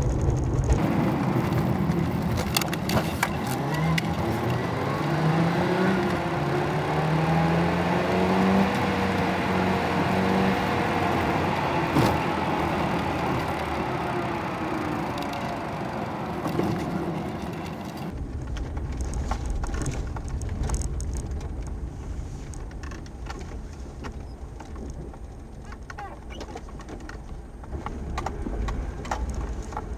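A motor vehicle's engine, its pitch rising and then falling over about fifteen seconds. About eighteen seconds in it gives way abruptly to a quieter low rumble with scattered clicks.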